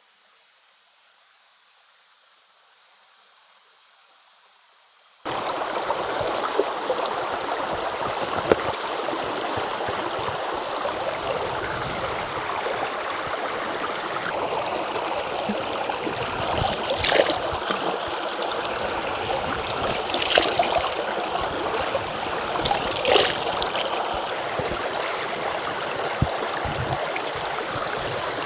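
Faint steady drone of insects, then a sudden cut about five seconds in to a river's loud, steady rushing water, with a few brief louder splashes.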